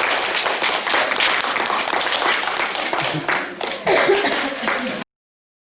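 An audience applauding, dense clapping with a few voices mixed in; it cuts off suddenly near the end.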